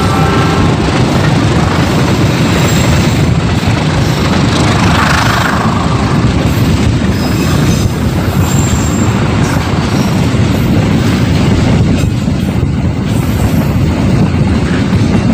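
Container freight train's wagons rolling on the rails: a loud, steady rumble of wheels and wagons, with a brief higher squeal about five seconds in.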